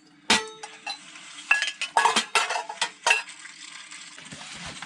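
Metal camp cookware and utensils clinking and knocking together as they are handled: about half a dozen sharp clinks, the first ringing briefly.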